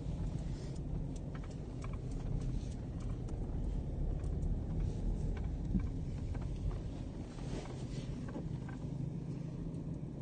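Steady low vehicle rumble, with scattered light clicks and knocks over it.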